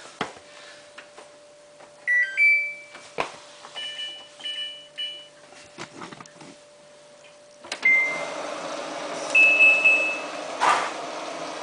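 Samsung WF8804RPA washing machine beeping as its control-panel buttons are pressed to enter service test mode, including a run of three quick beeps about four seconds in. A little over halfway through, water starts rushing into the machine with a steady hiss as it fills, with a couple more beeps over it.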